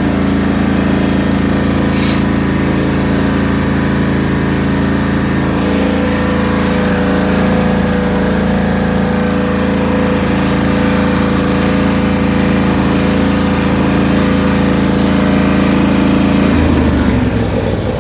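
Small gasoline engine of a riding lawn tractor running steadily after a warm start, kept running to charge its battery; its pitch shifts slightly near the end.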